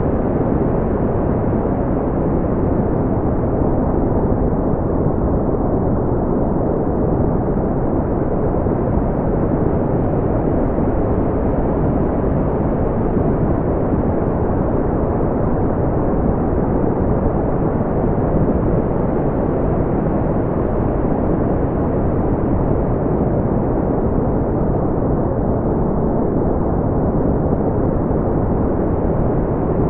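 Smoothed brown noise: a steady, deep rumbling hiss with most of its energy low down and almost nothing above the upper mids.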